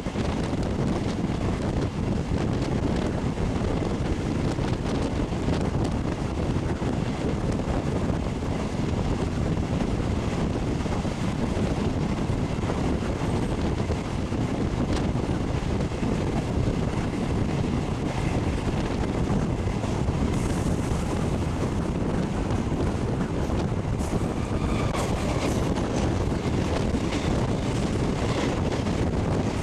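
Steady rush of wind and rumble of a moving electric multiple unit suburban train, with wind buffeting the microphone out of the open door or window. In the last few seconds a train on the adjacent track passes close by, adding sharper clatter.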